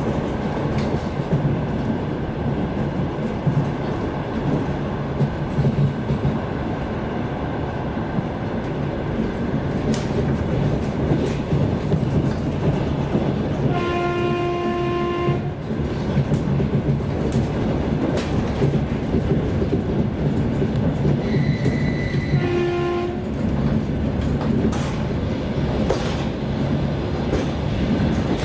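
Steady running rumble of an airport express train heard from inside a carriage, with scattered clicks from the wheels and track. About halfway a train horn gives one steady blast of about a second and a half, and a shorter blast follows some eight seconds later.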